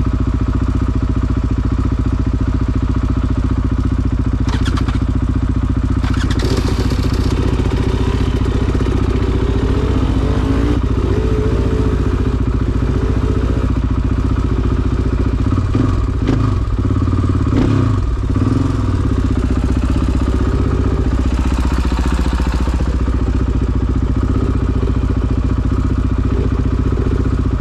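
KTM 500 EXC-F four-stroke single-cylinder dirt-bike engine running at low speed, with the engine note rising and falling briefly past the middle as the throttle is worked. A few knocks and clatter are heard early on.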